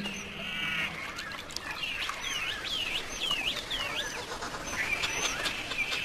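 Wild birds calling: a short trilled call, then a quick run of about five down-slurred chirps, and another call near the end, over faint outdoor background noise.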